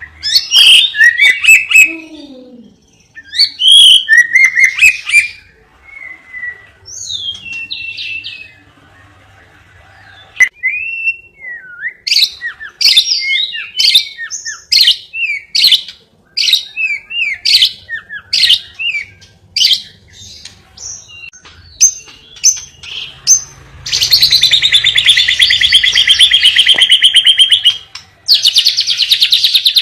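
Cage bird singing a varied song of sharp chirps, short whistled phrases and sweeping notes, with a long rapid trill about three quarters of the way in and another starting near the end.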